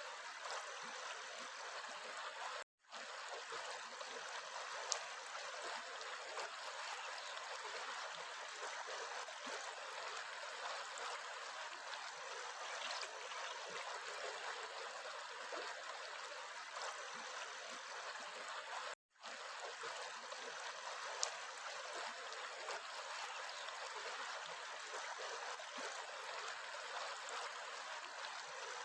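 A stream running steadily with a continuous babble of water. The sound cuts out completely for an instant twice, about three seconds in and again about two-thirds of the way through.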